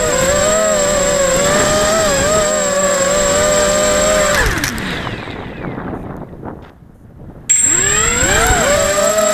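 Eachine Racer 250 quadcopter's electric motors and propellers whining steadily. About four and a half seconds in, the pitch falls and the sound fades as the throttle comes off. About seven and a half seconds in, it cuts back in abruptly, rising in pitch as the throttle comes up again.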